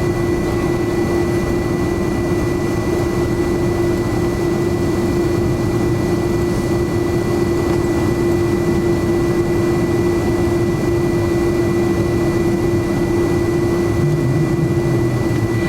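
Steady jet engine and airflow noise of a McDonnell Douglas MD-11 heard inside the passenger cabin, with a constant low hum and a thin high whine.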